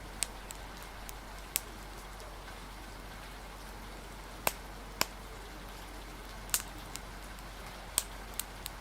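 Steady rain hiss with a wood fire crackling: about seven sharp, irregular pops scattered through, the loudest about four and a half seconds in and near the end.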